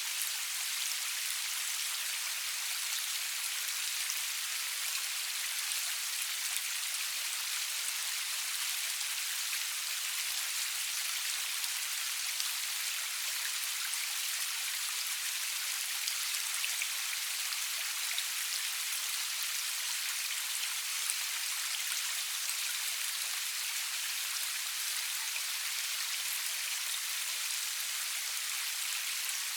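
Steady rain falling: an even hiss of many fine drops, mostly high in pitch with little low rumble, and no thunder.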